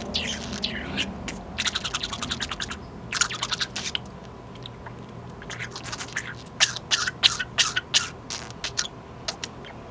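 Budgerigar chattering in rapid trains of sharp clicks and short buzzy chirps, its 'beatbox' sounds. The clicks come in runs of about a second with short gaps, the loudest run in the second half.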